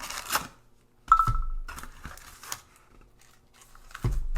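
Foil-wrapped baseball card packs rustling and crinkling as they are pulled out of a cardboard hobby box. There is a sharp knock with a brief ring about a second in, and a dull thump near the end.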